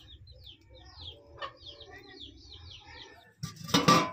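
A bird calling over and over in short falling chirps, about four a second, over a low rumble. Near the end a loud burst of noise cuts in.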